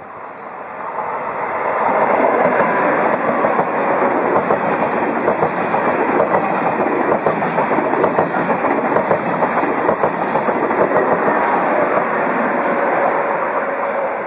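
A TGV high-speed electric train passing close by at speed. The rushing wheel and air noise swells over the first two seconds, stays loud while the carriages go by, and eases slightly near the end.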